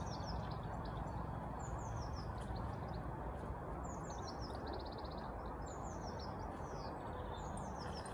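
Small songbirds chirping in short, quick falling notes, with one fast trill about five seconds in, over a steady outdoor background hiss.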